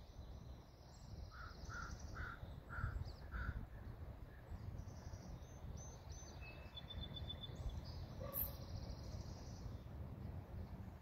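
Bird calls: about five short calls in quick succession, about half a second apart, starting a little over a second in, with high chirping and peeping through the whole stretch. A short high trill comes near the middle, and there is a single click a little later, over a low rumble of wind.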